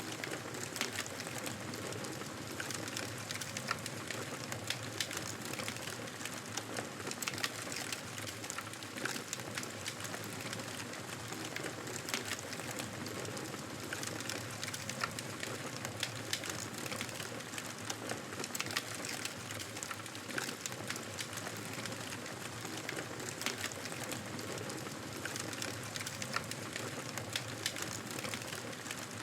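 Wood fire crackling in a fireplace: a steady hiss of flames with frequent small pops and snaps.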